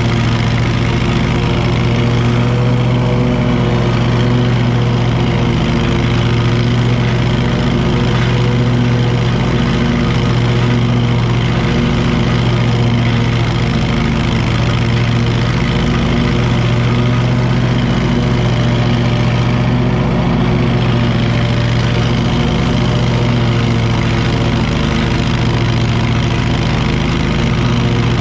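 Wright commercial mower's engine running at a steady speed, with an even, unchanging drone.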